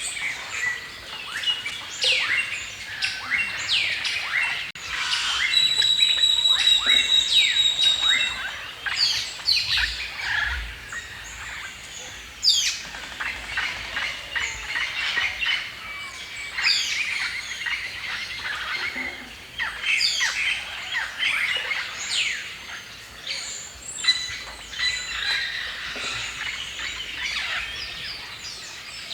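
Several songbirds singing and chirping together in a forest chorus, with quick overlapping chirps and falling whistles. One bird holds a rapid steady trill for a few seconds near the start.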